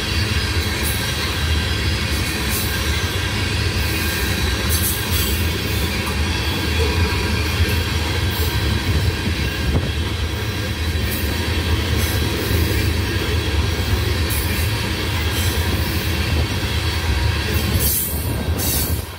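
Loaded ethanol tank cars rolling past: a steady low rumble of steel wheels on rail with irregular clacks over rail joints and a faint thin wheel squeal, two sharper clacks near the end.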